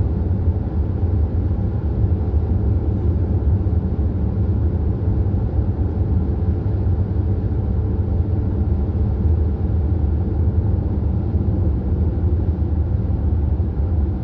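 Steady low rumble of a vehicle driving at road speed, engine and tyre noise with no change in pace.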